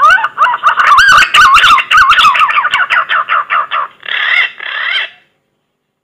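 Green pigeon (punai) song played as a hunting lure call: warbling, fluting whistles that bend up and down, turning into a quick run of short notes, then two longer phrases that stop about five seconds in.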